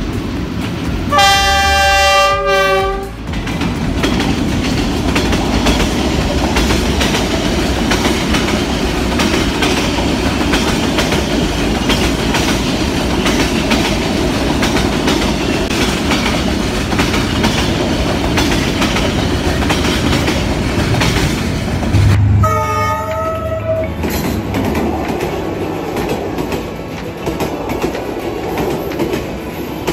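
Train horn sounding for about two seconds near the start, then the steady rumble and clickety-clack of a train running past. A second, shorter horn blast comes about two-thirds of the way through.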